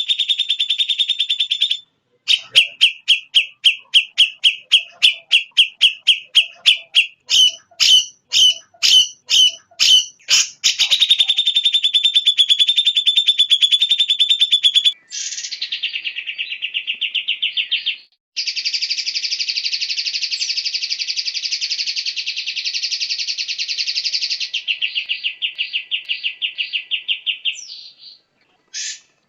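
Recorded songbird song played as masteran (tutor audio for caged songbirds). It begins with a fast, high trill, then a run of separate chirps that speed up toward the middle, then long buzzing trills. The song stops abruptly and switches between phrases several times, with short breaks.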